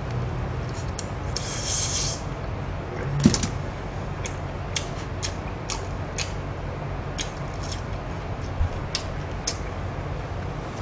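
A person eating glazed roast chicken and pickled radish cubes, with wet chewing and lip-smacking clicks, a few a second. There is a brief hiss near the start and a single thump about three seconds in.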